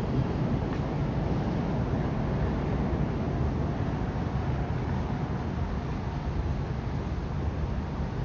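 Steady low rumble of outdoor ambient noise with a faint low hum, unchanging throughout, with no distinct events.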